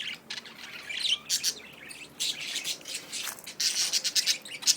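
A flock of caged budgerigars chirping and chattering, with many short, rapid high-pitched calls overlapping and coming in uneven bursts.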